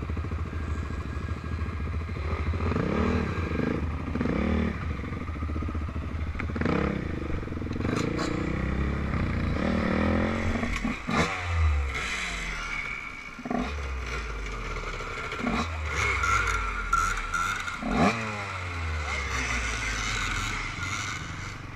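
Off-road quad or motocross engine running and revving, its pitch rising and falling, with clattering and several sharp knocks in the second half.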